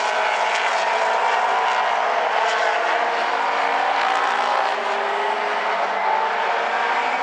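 A pack of late model stock cars racing on an oval, several engines running hard together in a steady, overlapping drone that shifts slightly in pitch.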